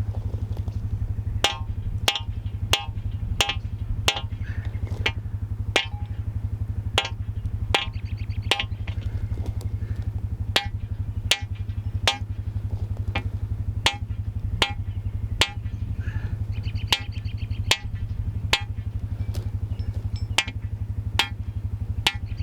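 Tractor engine running steadily at low revs, with the regular beat of background music laid over it, about one drum hit every two-thirds of a second.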